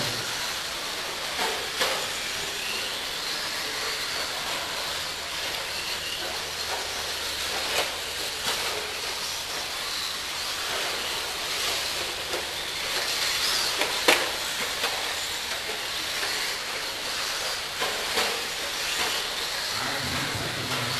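Electric RC stadium trucks racing on a track: a steady hiss of motors and tyres, with high whines rising and falling as the trucks speed up and slow down. A few sharp knocks can be heard, the loudest about two-thirds of the way through.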